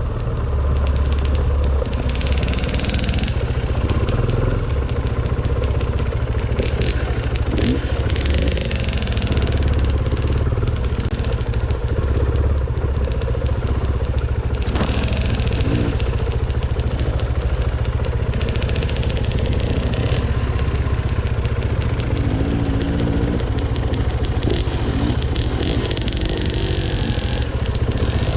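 Dirt bike engine running steadily while riding a trail, with scattered clatter and several bursts of hiss.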